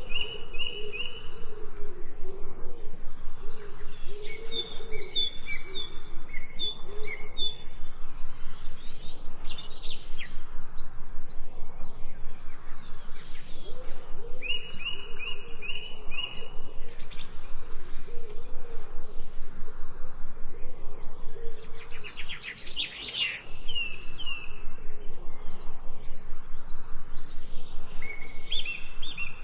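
Several birds singing together, with runs of short repeated high chirps and quick rising notes. A lower wavering cooing call sounds underneath through the first third and again in the middle.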